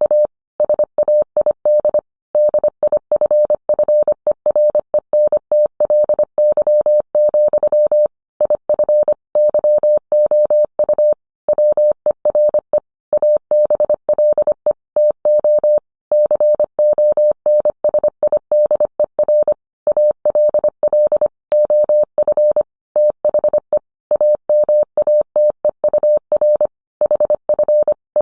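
Morse code sent as a single steady tone, keyed on and off in short and long elements with brief gaps between characters and longer pauses between words.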